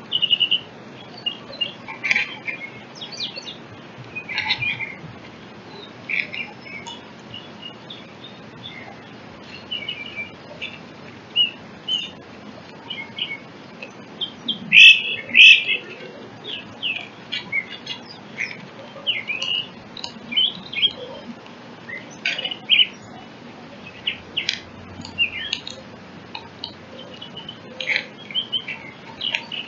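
Birds chirping: many short, high chirps and calls through the whole stretch, with a louder cluster about halfway in.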